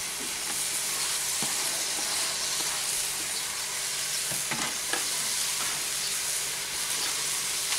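Muscovy duck, bell peppers and chopped onion frying in a cast iron skillet: a steady sizzle, with a few faint ticks.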